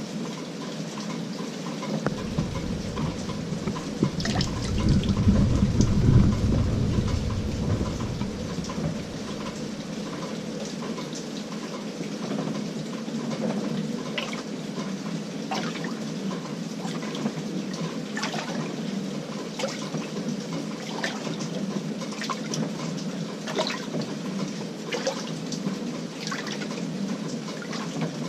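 Water running and splashing inside the tub of an LG 18 kg top-load washing machine, with scattered small splashes. A low rumble builds a couple of seconds in, is loudest around five to six seconds, and fades out by about eight seconds.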